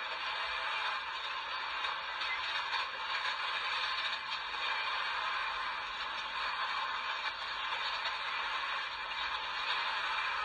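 Freight train of loaded flatcars rolling past: a steady rattle and scrape of steel wheels on the rails, unbroken throughout.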